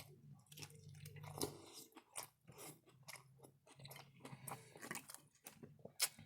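Close-miked chewing of crunchy food: many short, irregular crunches and crackles, with one sharper crunch near the end, over a faint low hum.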